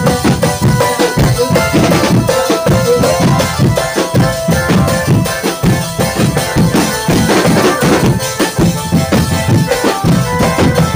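Loud percussion-led band music: rapid, dense drumming with steady melodic notes held over it.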